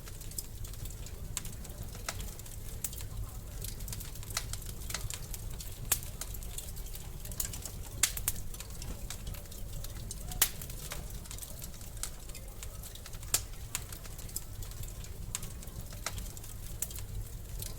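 Wood fire in a fireplace crackling, with irregular sharp pops over a steady low rumble; the loudest pops come about 6, 8, 10 and 13 seconds in.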